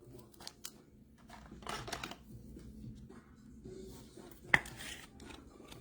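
Trading cards being handled between calls: faint rustling and sliding with small clicks, and one sharp tap about four and a half seconds in.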